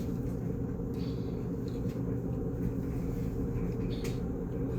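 A steady low rumble or hum, with a couple of faint clicks over it.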